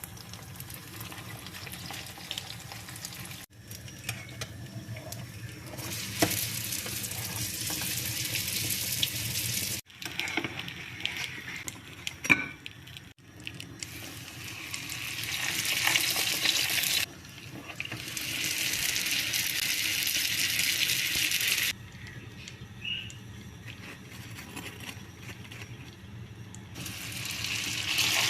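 Kitchen work sounds: a steady high hiss, like food sizzling in a pan or a running tap, in several stretches that start and stop abruptly, with a few short clinks in between.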